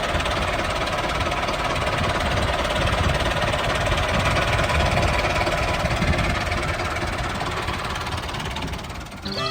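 Small engine running steadily, a rapid rattling pulse under a noisy haze, until music cuts in near the end.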